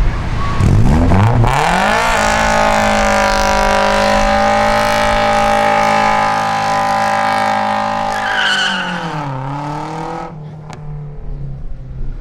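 Car doing a burnout: the engine revs up in the first two seconds, is held high and steady for about six seconds while the tyres spin, then drops back and cuts off about ten seconds in.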